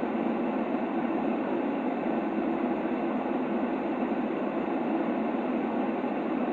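Steady, unchanging white noise played as a sleep sound for a baby. It is an even hiss pitched in the middle range, with little deep rumble and no high sizzle, like the sound heard inside a train carriage.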